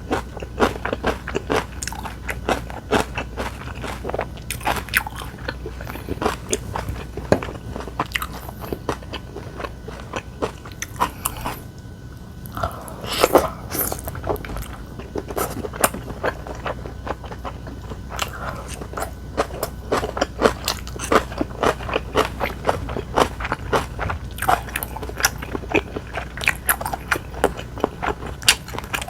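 Close-miked eating: a person biting and chewing crunchy food in quick, irregular bites, with a short pause about twelve seconds in.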